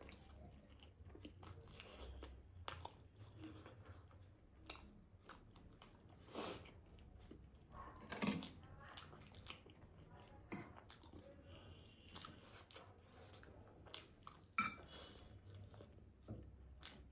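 A person chewing mouthfuls of momo dumplings close to the microphone: soft wet smacks and mouth clicks, with a few sharper clicks about 8 and 14–15 seconds in.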